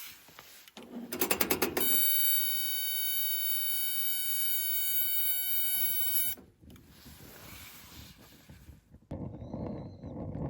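A quick rattle of clicks, then a steady high-pitched tone held for about four seconds that cuts off suddenly.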